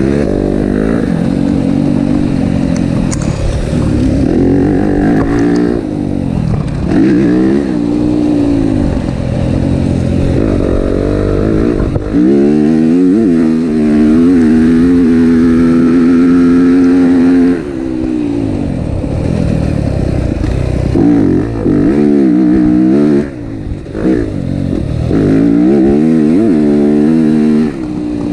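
Yamaha motocross bike's engine being ridden hard, its pitch climbing and falling again and again with throttle and gear changes. About twelve seconds in it holds a high, steady rev for several seconds before dropping off.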